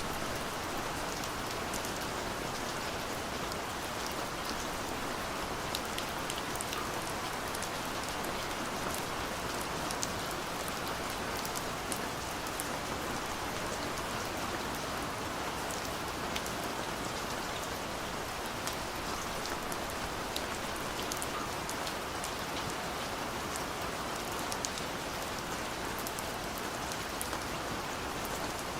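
Steady rain falling, a continuous hiss with many small sharp drop impacts scattered through it.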